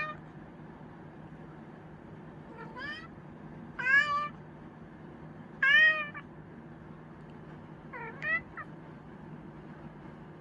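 A chinchilla Persian cat meowing repeatedly, about five short meows a second or two apart, each bending up and down in pitch. The last is a quick double meow.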